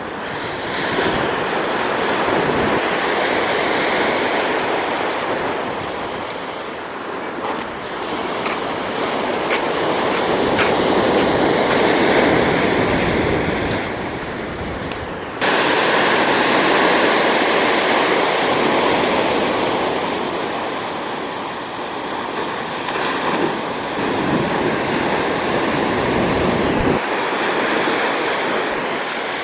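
Ocean waves surging and washing, with wind buffeting the microphone; the sound swells and eases every several seconds and changes abruptly about halfway through.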